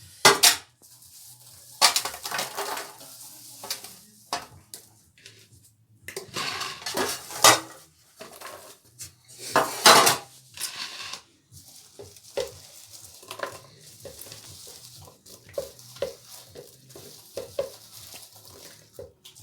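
A utensil clinking and scraping against a dish while a thick mixture is stirred, in irregular strokes with a few louder scrapes.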